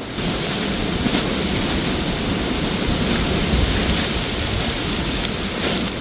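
Strong wind blowing through the woods and buffeting the microphone, a steady rushing noise that steps up just after the start and holds.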